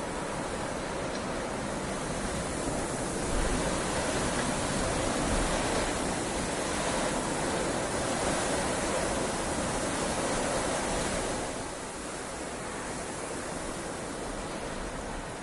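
Heavy rain falling steadily, an even hiss that swells a little louder about three seconds in and eases back down near the end.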